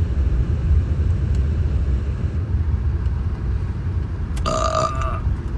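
Car engine running with a steady low rumble. A brief two-note-high tone sounds once near the end.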